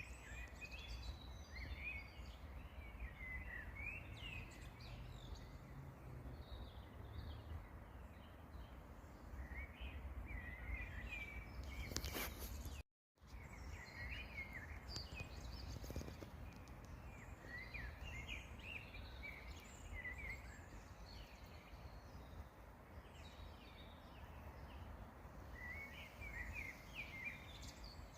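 Several songbirds chirping and singing in short overlapping phrases over a steady low rumble. The sound cuts out to silence for a moment about halfway through.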